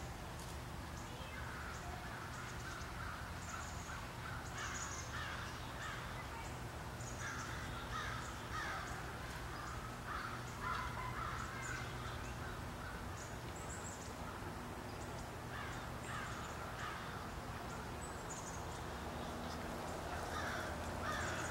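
Birds calling in scattered bursts of harsh calls, with a few higher chirps, over a faint steady low hum.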